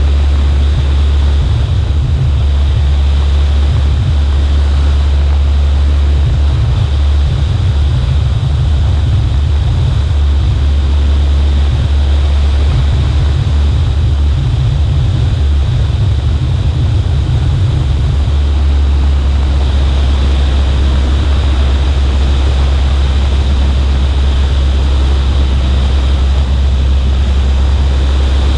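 Cessna 140A's engine and propeller running steadily in flight, a loud drone with a heavy low rumble that wavers for the first two-thirds and then evens out, mixed with rushing air over the wing.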